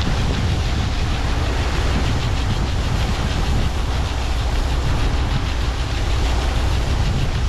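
Heavy diesel harvest machinery running steadily under load: a loud, continuous, deep rumble with a broad mechanical roar over it.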